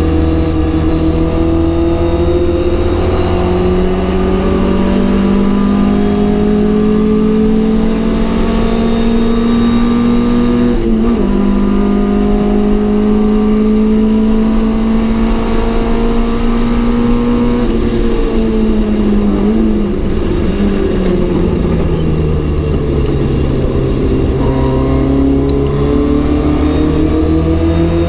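Ford Cortina GT's four-cylinder engine running hard under racing load: the revs climb slowly, break briefly at a gear change about eleven seconds in, then fall away for several seconds as the car slows before climbing again near the end.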